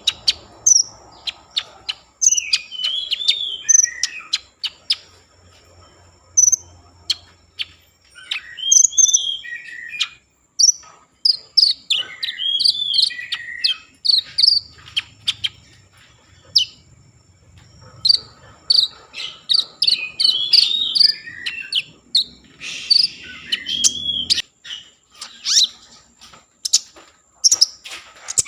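Konin songbird singing a fast, high-pitched, chattering song of chirps and trills in repeated bursts with short pauses. A faint steady high tone, like an insect's, runs underneath.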